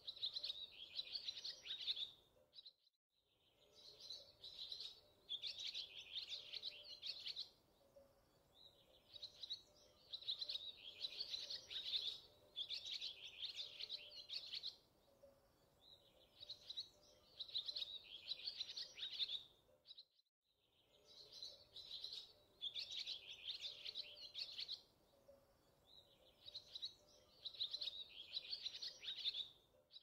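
Songbird chirping in repeated quick, high phrases, each lasting a second or two and coming every few seconds, over a faint steady hum. The sound drops out briefly twice.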